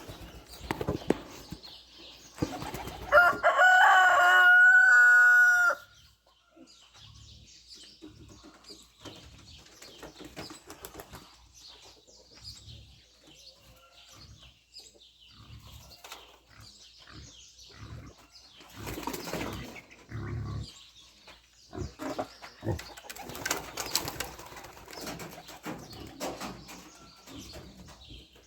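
Pigeons flapping their wings as young birds flutter in and out of the loft trap, in scattered bursts that are busiest in the second half. About three seconds in, a loud, long animal call with a steady pitch is held for about three seconds and drowns out everything else.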